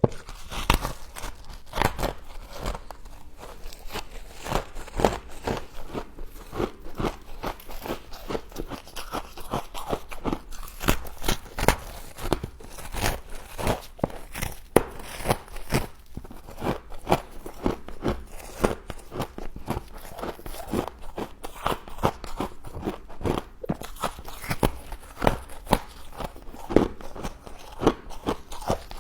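Close-up crunching and chewing of frost: a steady run of irregular sharp, crackly bites and crunches as the ice is bitten and chewed.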